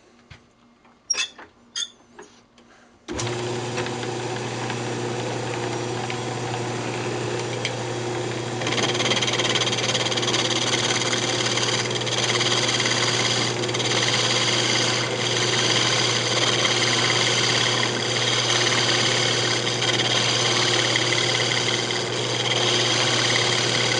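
A few light clicks, then about three seconds in a wood lathe's motor starts a steady hum. From about nine seconds in, a turning tool cutting the spinning maple adds a steady hiss on top.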